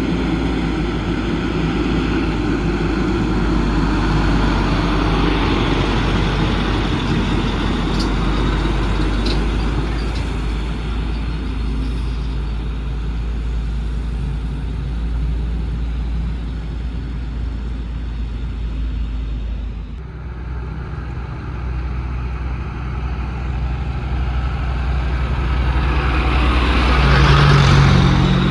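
Heavy trucks running along a road, a steady low engine drone with tyre and road noise. The sound changes abruptly about two-thirds of the way in, then a truck approaches and passes loudest near the end.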